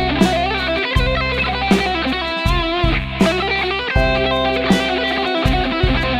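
Samick SS-71 electric guitar improvising a lead line with string bends and vibrato. Behind it runs a backing track of bass notes and drum hits on a steady beat.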